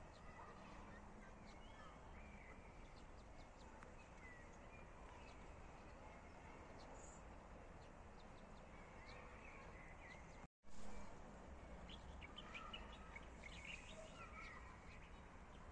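Quiet outdoor background with faint, scattered bird chirps and twitters. The sound cuts out for an instant about ten seconds in, followed by a brief louder swell of noise.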